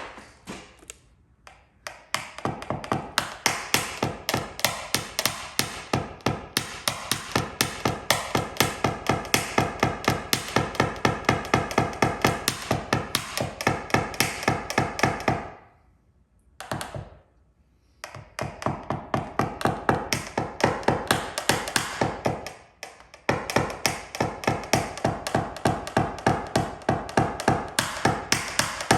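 Paintless dent repair tap-down: a knockdown tool struck with a small hammer against car sheet metal in quick, even taps, about four a second, each with a slight metallic ring. The tapping stops briefly about halfway and again about three-quarters of the way in, then resumes. It levels high spots left by the glue pulls.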